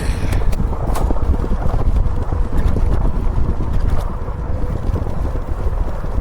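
Wind buffeting the microphone of a camera on a moving e-bike: a loud, steady low rumble, with a few sharp clicks in the first second.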